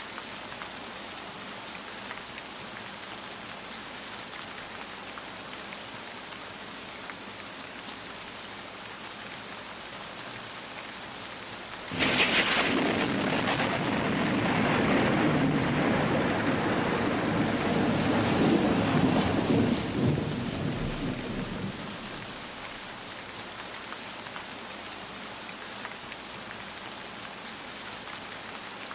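Steady rain falling, with one clap of thunder about twelve seconds in: a sudden sharp crack that rolls on as a rumble for some ten seconds, then fades back under the rain.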